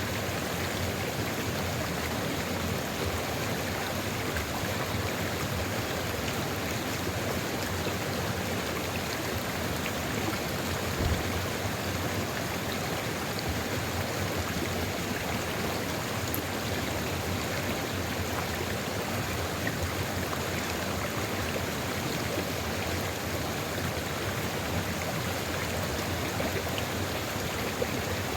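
Sulfur river flowing steadily, with an even rush of water. There is one brief low thump about eleven seconds in.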